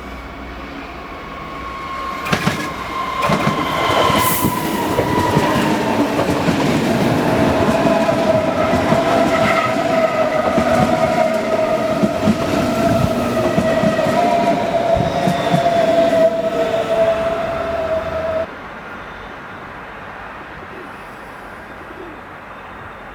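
A train passing close by, its wheels clacking over rail joints and points, with a steady high-pitched whine and several tones slowly falling in pitch. The passing sound cuts off abruptly about three-quarters of the way through, leaving a quieter steady background.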